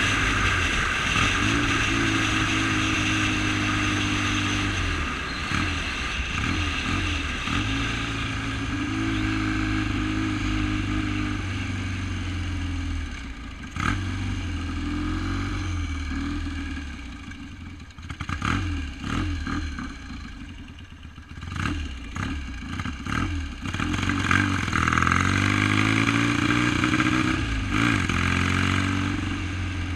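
1971 BSA Lightning's 650 cc parallel-twin engine running, its pitch rising and falling several times with the throttle. It goes low and uneven for a few seconds in the middle, then climbs again near the end.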